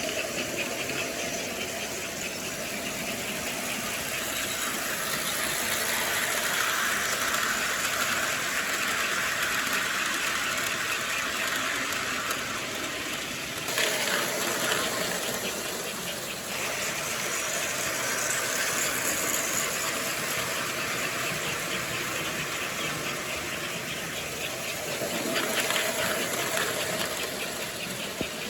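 Model train running on its track: a steady motor whir with wheels rattling over the rails. The sound shifts abruptly about halfway through.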